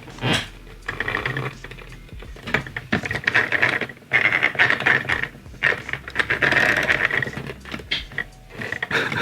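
Singer EZ toy starter sewing machine stitching in short runs of rapid needle clatter, stopping and starting several times.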